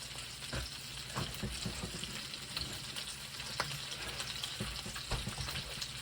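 Food frying in a hot pan on the stove: a steady sizzle with crackling pops and a few louder knocks.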